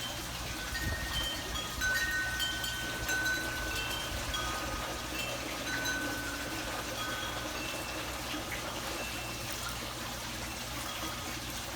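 Wind chimes ringing, several metal tones of different pitches sounding and overlapping at irregular moments, over a steady wash of running or trickling water.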